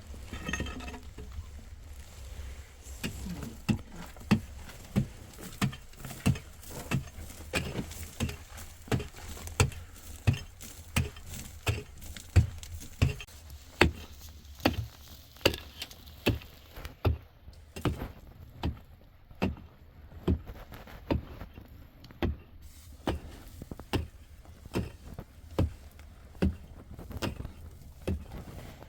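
A hand tool striking a hard material again and again in a steady rhythm, about two blows a second, starting a few seconds in.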